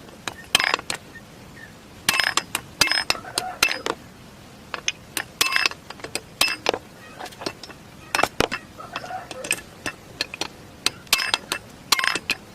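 Hand tools clinking and knocking on metal motorcycle parts in irregular clusters of sharp strikes, as bolts are undone and a part is tapped.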